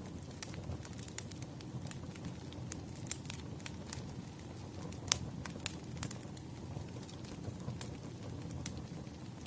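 Wood fire burning in a fireplace: a steady low rumble of flames with scattered sharp crackles and pops, the loudest about five seconds in.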